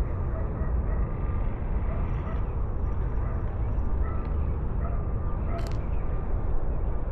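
Wind buffeting the microphone as a steady low rumble, with faint short calls repeating in the background and one sharp click about two-thirds of the way through.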